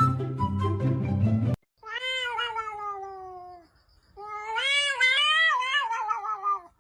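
Background music cuts off about a second and a half in; then a cat gives two long, drawn-out meows, the first sliding down in pitch, the second louder and wavering.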